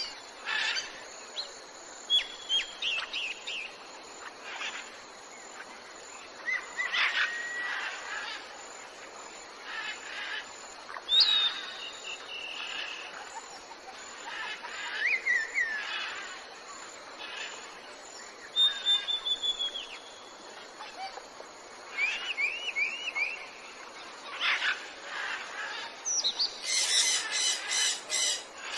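Several birds chirping and calling, short whistled notes and quick glides scattered throughout, then a run of loud, harsh repeated squawks starting a couple of seconds before the end.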